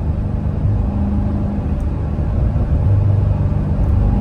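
2016 Corvette Stingray Z51's 6.2-litre LT1 V8 running steadily on the road, a deep engine note through an AWE off-road X-pipe exhaust that swells briefly about three seconds in.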